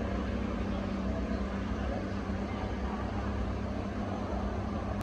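Car engine idling, a steady low drone with no revving.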